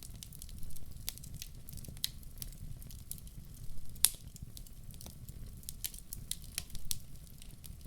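Wood fire crackling in a fireplace: irregular sharp pops and snaps over a low steady rumble of the flames, with the loudest pop about four seconds in.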